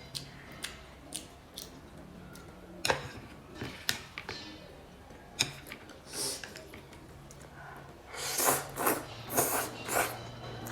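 Kitchen food-prep handling: scattered sharp clicks and knocks, then a quick run of louder scraping or rustling sounds about eight seconds in.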